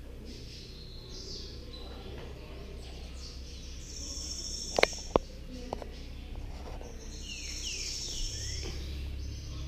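Birds chirping in quick high calls, with a few falling notes near the end, over a low steady hum. Two sharp clicks about five seconds in.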